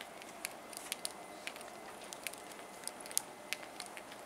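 Taiwan Railway EMU3000 trainset, towed by a locomotive, rolling slowly past on arrival: scattered sharp clicks and ticks at irregular intervals over a faint steady hum.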